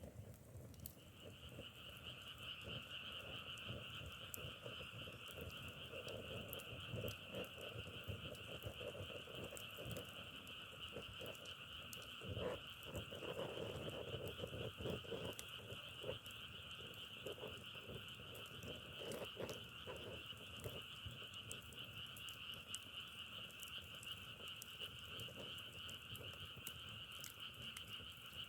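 A chorus of frogs calling steadily, a continuous two-pitched trilling that starts about a second in, with scattered small crackles and clicks throughout.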